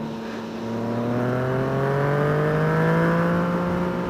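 Motorcycle engine running under load. Its note dips briefly about half a second in, then rises steadily for a couple of seconds and levels off as the bike accelerates.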